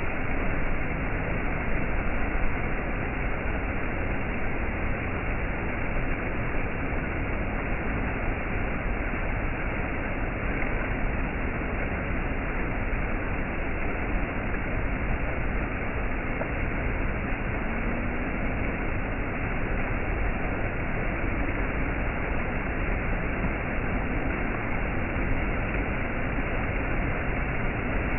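Waterfall water rushing and splashing as a steady, unbroken roar of noise.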